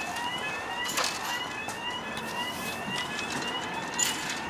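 Level crossing warning alarm sounding: a repeating electronic tone that sweeps upward about three times a second. Two sharp clicks come about a second in and near the end.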